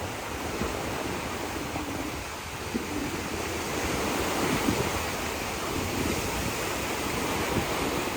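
Sea surf washing in, with wind gusting on the microphone; the wash swells a little louder in the second half.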